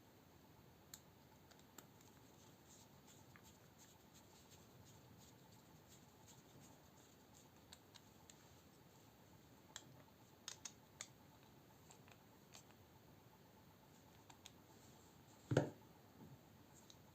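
Faint, scattered small clicks and taps of folding-knife parts and a bit driver being handled during disassembly, with one louder knock about fifteen seconds in.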